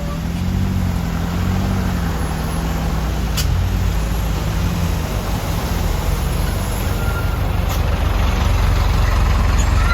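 Heavily overloaded Mitsubishi Canter truck's diesel engine running under load, a steady low rumble that grows slightly louder toward the end.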